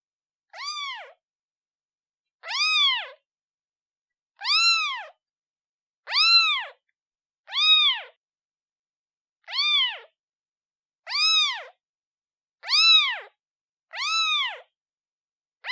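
A newborn kitten meowing repeatedly, calling for its mother: about nine short, high-pitched meows, each rising then falling in pitch, one every one and a half to two seconds with silence between.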